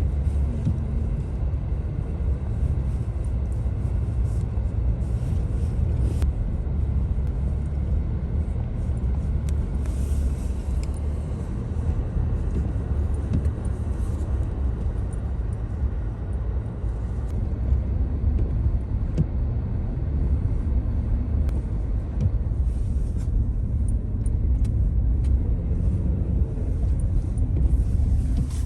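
Car driving on snow-covered roads: a steady low rumble of engine and tyres, with a few faint clicks now and then.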